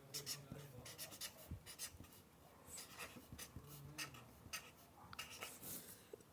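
Quick, irregular writing strokes scratching on paper, crossing an item off a list.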